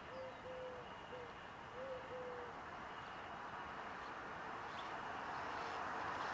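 A bird's soft, low hooting call, a few cooing notes at one pitch over the first two and a half seconds, over a faint background hiss that slowly grows.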